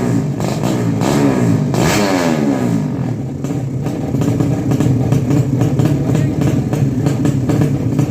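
Drag-racing motorcycle engines revving. In the first two seconds or so come a few revs, each falling in pitch; after that the engine holds a steady note.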